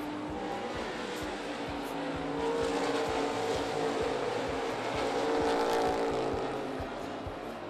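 Dirt-track race car engines running hard as the field laps the oval, swelling louder about two and a half seconds in and again near six seconds as cars pass, then easing off toward the end.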